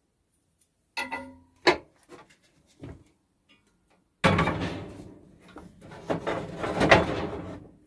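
Two sharp knocks about a second apart, the first with a brief ring, then several seconds of dense scraping and rattling as something is moved or handled on the workbench.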